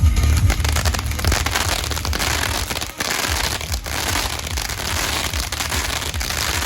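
Fire-show pyrotechnics crackling and hissing in a dense spray of sparks, over a steady low rumble. The crackle dips briefly about three seconds in.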